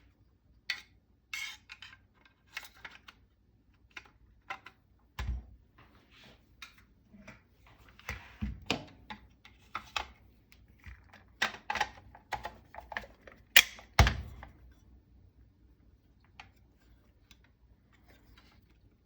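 Metal parts of a SCAR 15P rifle clicking, clacking and knocking as it is reassembled after field stripping. There are irregular clicks throughout, with heavier thunks about five and fourteen seconds in, and the handling dies down after about fifteen seconds.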